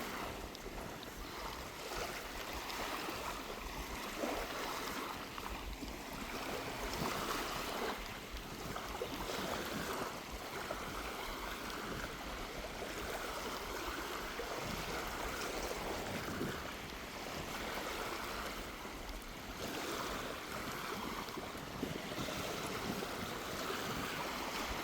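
Small waves washing up onto a sandy beach, coming in soft swells every few seconds, with a light sea breeze on the microphone.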